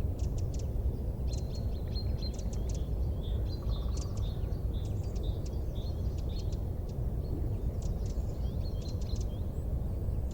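Small birds chirping in quick, high-pitched runs of short notes every second or two, over a steady low rumble.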